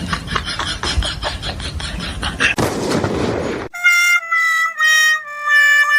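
A short burst of hiss, then an added horn-like sound effect: a few held electronic notes, each a little lower than the one before.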